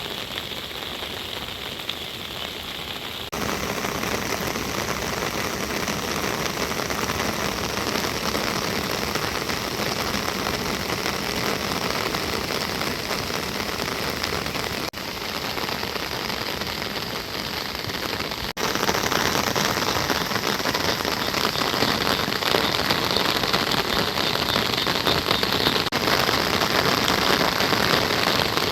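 Rain falling steadily, a dense even hiss with no voices, that jumps abruptly in loudness a few times, about 3, 15, 18 and 26 seconds in.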